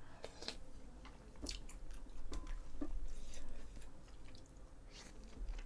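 Close-up chewing of food, with scattered small clicks and soft wet mouth sounds.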